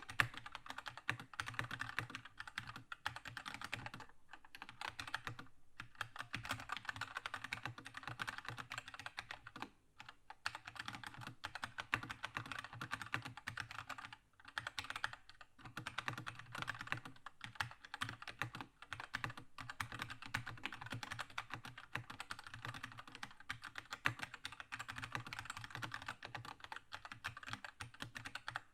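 Continuous fast typing on a Keychron K2 mechanical keyboard with linear red switches: a dense stream of key clacks with a few brief pauses.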